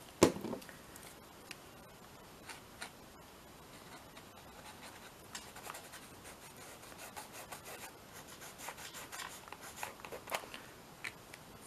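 A short knock at the start, then soft, irregular rubbing and scratching strokes of an art tool working colour into a textured paper collage page.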